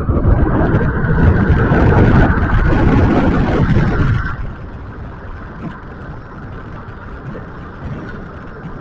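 Rushing wind and road noise while riding an electric scooter, loud for the first four seconds, then dropping suddenly to a quieter steady rush.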